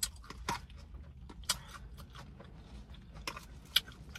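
Close-up mouth sounds of someone eating tuna salad: chewing and smacking, with several short sharp clicks, the loudest near the end.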